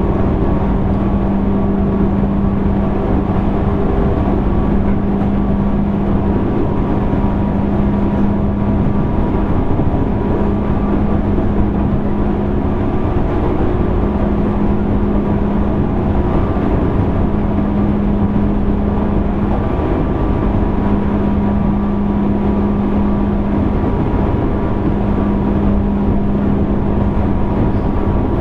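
Running sound inside a JR East 205 series 600 electric train's motor car: an even rumble of wheels on rail with a steady hum from the traction equipment, the train running along at a constant pace.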